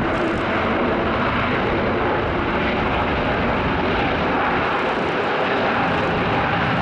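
Airliner's engines running in a steady, loud rush of noise, with a faint steady whine that grows a little stronger in the second half.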